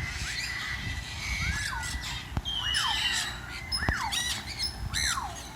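Parrots squawking in their aviaries: several harsh calls that rise and then drop in pitch, overlapping, over a low rumble.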